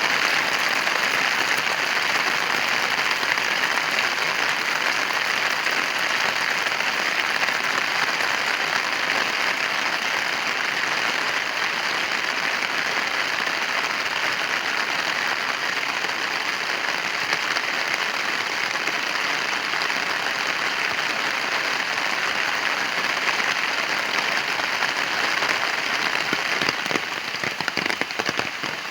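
Heavy rain pouring steadily, a dense even hiss. Near the end the downpour eases slightly and separate drop strikes stand out.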